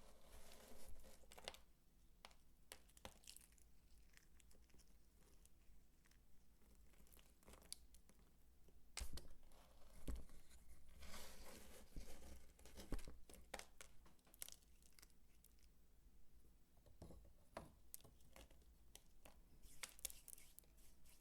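Dry soap being worked by hand: crisp crackling and crumbling in patches, with scattered sharp clicks.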